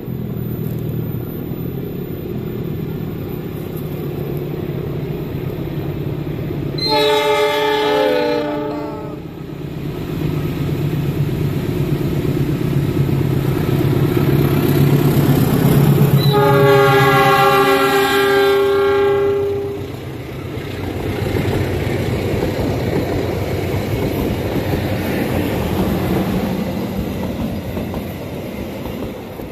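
CC 206 diesel-electric locomotive approaching and passing close by, its engine rumble building. It sounds its horn twice: a short blast about seven seconds in and a longer one about seventeen seconds in, as it comes alongside. The passenger coaches then roll past with wheel and rail noise.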